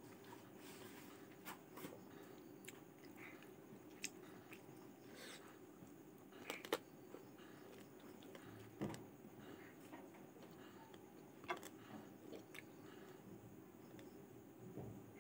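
Faint chewing and mouth sounds of a person eating rice and boiled chicken by hand, with scattered short smacks and clicks, the sharpest about six and a half seconds in, over a faint steady hum.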